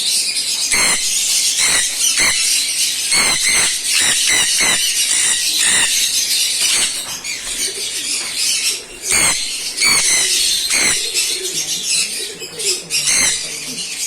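A flock of small cage birds in an aviary chirping and chattering continuously in rapid, high-pitched calls. Frequent short flutters of wings sound in among the calls.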